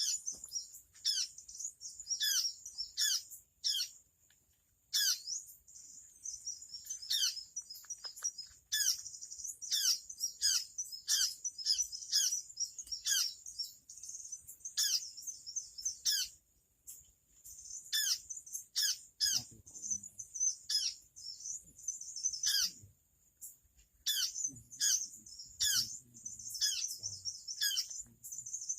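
Small birds calling: a quick, continual series of sharp, high notes, each sliding down in pitch, over a steady high insect-like hiss.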